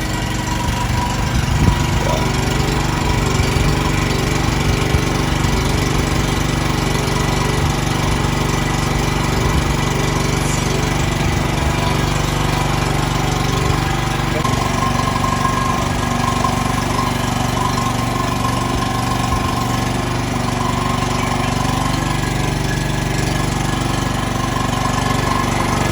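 Portable generator's small engine running steadily on LPG through a converted carburettor, on a test run of the repaired engine. Its note changes slightly about halfway through.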